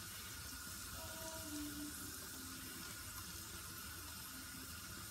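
Steady sizzle of sliced onions and mushrooms frying in a non-stick pan on the stove.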